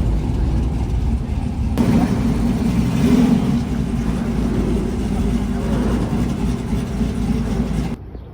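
Car engine running with a deep, steady exhaust rumble; the sound changes abruptly about two seconds in and drops away sharply near the end.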